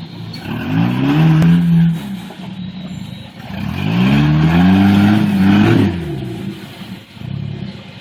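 Jeep Wrangler TJ engine revving up twice, its pitch climbing and holding for a couple of seconds each time before dropping back to a lower run.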